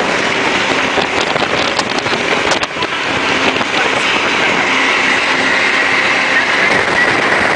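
Jet boat running at speed: a loud, steady rush of engine and water noise.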